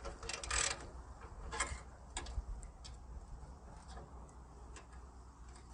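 Scattered light clicks and taps of tools and metal parts being handled, with a short scrape about half a second in, over a low steady hum.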